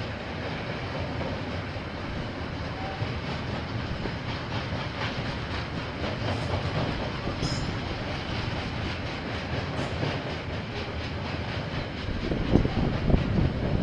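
KiwiRail train rolling past, its wagons' wheels clattering steadily over the rail joints. A brief high squeal about halfway, and the low rumble grows louder near the end.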